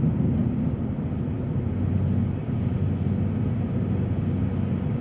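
Steady road and engine noise inside a moving car's cabin: a low rumble with a faint hum.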